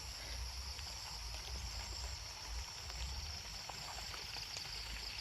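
A steady, high insect chorus over a low, uneven rumble of wind on the microphone, with a few faint ticks.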